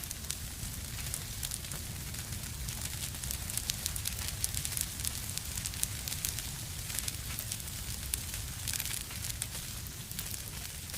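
Fireplace fire crackling steadily, with many small sharp pops over a low rumble of flame.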